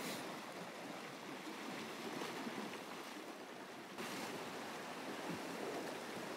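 Sea water washing and lapping against the shore in a steady hiss, growing a little louder about four seconds in.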